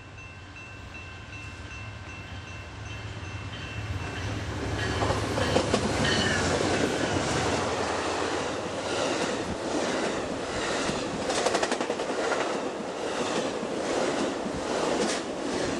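A train approaching and passing close by: a low engine hum builds, then from about five seconds in the rolling wheels click in a steady rhythm over the rail joints.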